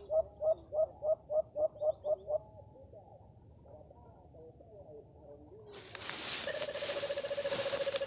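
A bird calling: a run of about nine short notes, roughly four a second, over the first two and a half seconds, then a steady, rapid trill on one pitch starting about six and a half seconds in.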